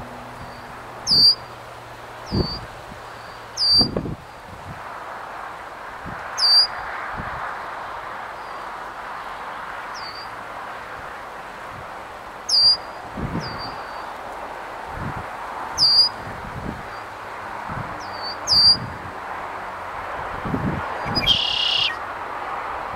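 A bird calls repeatedly with short, sharp, high chirps every two or three seconds over a steady outdoor hiss. A brief, different squeal comes near the end.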